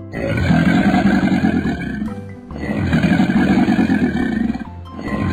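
Crocodile growl sound effect: a loud, rough, rasping growl that repeats in bouts of about two seconds, with short breaks about two seconds in and again near the end.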